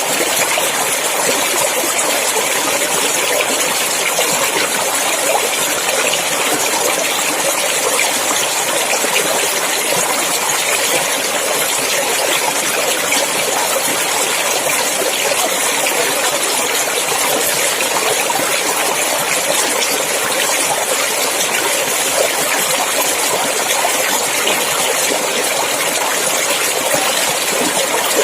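Clear stream water running and splashing over rocks, a steady rushing babble.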